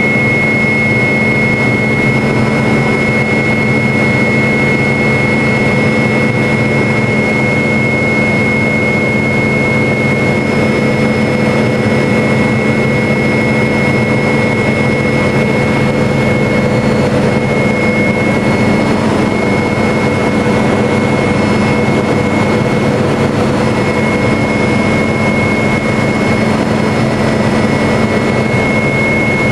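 MD500 helicopter in steady flight: a turboshaft engine whining on a high steady tone over the low drone of the rotor and gearbox, with no change in pitch or level.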